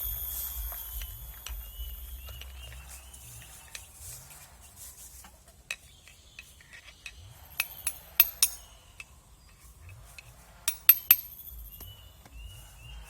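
Sharp clinks of a spoon against a cup as coffee is made, in two quick clusters of three or four strikes, one a little past the middle and one near the end.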